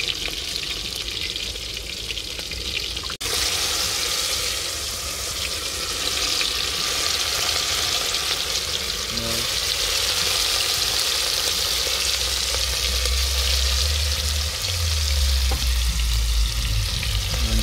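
Meat frying in oil in an aluminium pot on a small gas-cylinder stove, with a steady sizzle and stirring in the pot.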